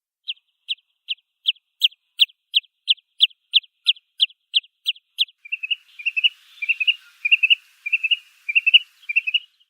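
Wood sandpiper (Tringa glareola) calling. First comes a steady series of single sharp, high notes at about two and a half a second. From about halfway the notes change to quick repeated groups of two or three, like the bird's "chiff-iff-iff" call.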